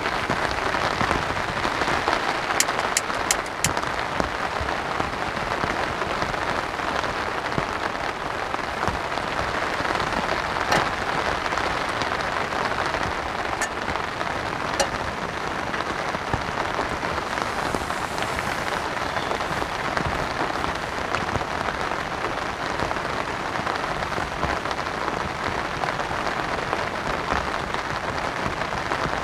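Heavy rain falling steadily on a tent, a dense, even patter. A few sharp clicks stand out about three seconds in and again near the middle.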